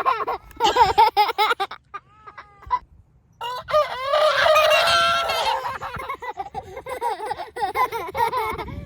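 A rooster crowing repeatedly, with a short pause about two seconds in before a long, loud crow.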